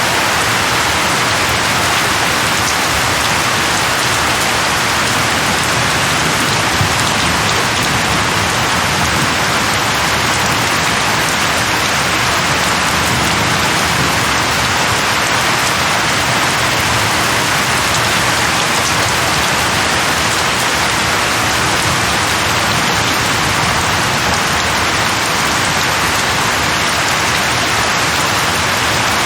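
Steady, heavy rain falling on a surface, a dense even hiss that stays constant throughout.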